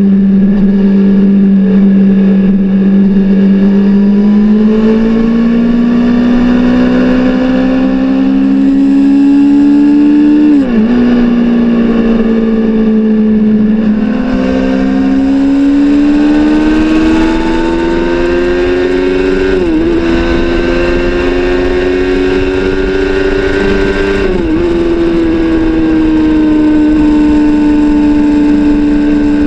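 Exhaust of a Suzuki GSX-R600 K7 inline-four sport bike running loud and continuously. Its pitch climbs slowly and drops abruptly three times, about 11, 20 and 24 seconds in, then eases down gently toward the end.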